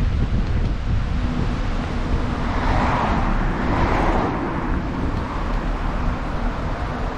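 Steady wind rumble on the microphone from riding a bicycle, with a passing car whose tyre noise swells and fades about three to four seconds in.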